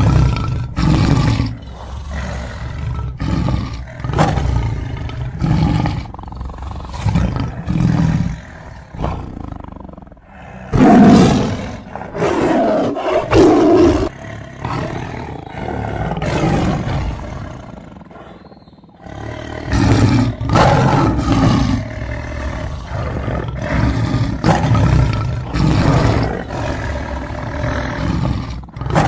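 Tiger roaring in repeated rough, low pulses, with a longer, higher-pitched call about eleven seconds in and a short lull a little before twenty seconds.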